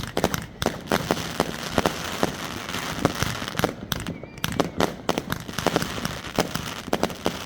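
New Year fireworks going off in a dense barrage. Sharp bangs come several a second over a continuous crackle, thinning briefly about midway.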